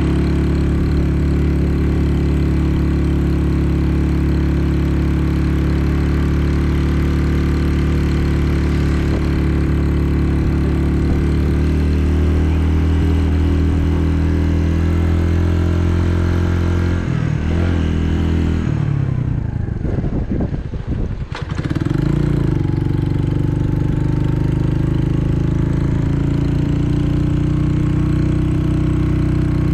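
Restored SYM Wolf motorcycle's single-cylinder engine running steadily. About seventeen seconds in its speed falls and dips for a few seconds, then picks back up and settles again.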